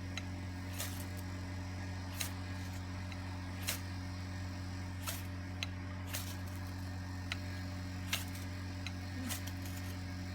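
Ferro rod struck again and again, about ten short, sharp scrapes roughly a second apart as sparks are thrown onto damp tinder that will not catch. A steady low hum runs underneath.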